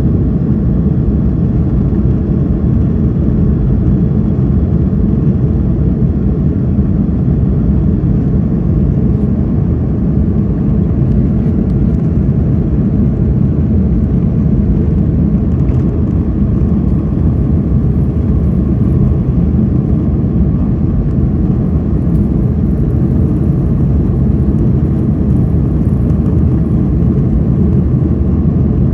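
Airliner jet engines running with a steady low rumble, even and unbroken throughout.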